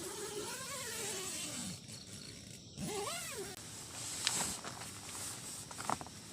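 An animal calling twice: a long call that rises and then falls, and about three seconds in a shorter call that also rises and falls. A few sharp clicks or snaps follow near the end.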